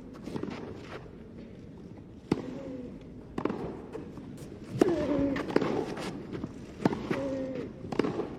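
Tennis rally: a string of sharp ball-on-racket hits, roughly one every second or so, with short vocal sounds between the strokes.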